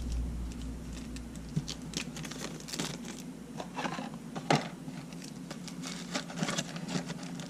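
Hands rummaging through parts on a workbench: irregular small clicks, taps and rustles of items being picked up and moved, over a steady low electrical hum.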